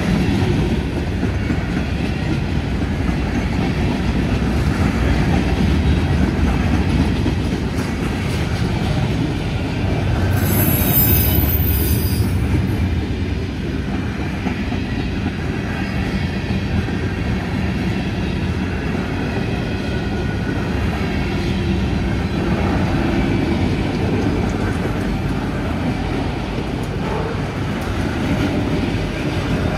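Freight cars rolling past close by: a steady rumble of steel wheels on the rails, with a brief high-pitched squeal about ten seconds in.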